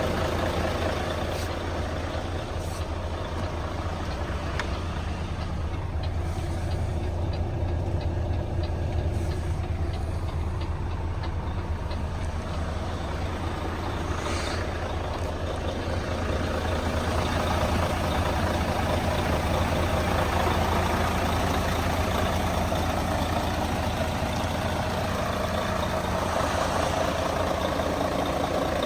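Mercedes-Benz Actros 1846 truck's V6 diesel engine idling steadily, with a brief hiss about 14 seconds in.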